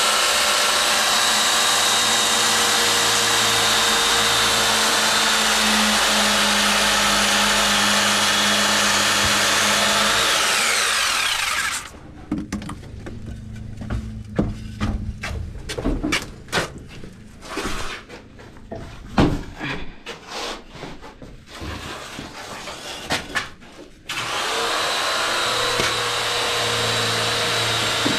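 An electric power tool's motor runs steadily with a constant hum and whine, then winds down about ten seconds in. A stretch of scattered knocks and clatter follows. Near the end the motor runs again and begins to wind down.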